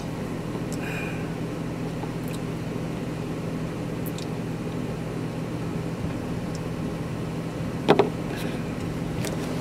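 Car engine idling with its ventilation running, a steady low hum heard from inside the cabin. A brief knock about eight seconds in.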